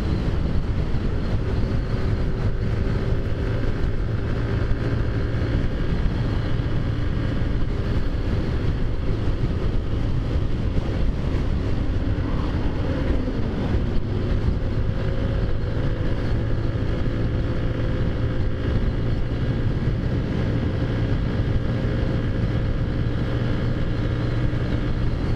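Taotao Zummer 50cc scooter engine running steadily while riding along, with wind noise on the microphone.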